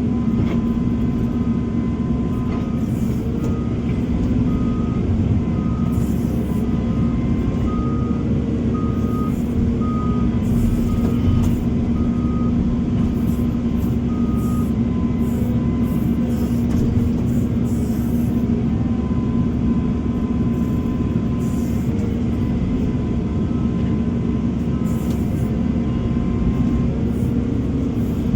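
Heavy construction machinery with a diesel engine running steadily. A backup alarm beeps in a repeating series through roughly the first half.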